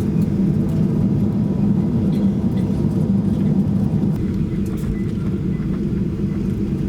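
Steady low rumble of a Boeing 737-800's cabin noise heard from inside, with faint light ticks now and then.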